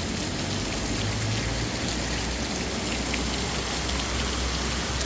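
Heavy rain falling steadily, a dense even hiss with scattered drops ticking, over a low rumble.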